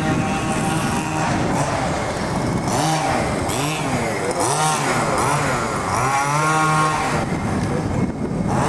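Small two-stroke petrol engine of a large-scale RC car running and revving up and down several times, its pitch rising and falling.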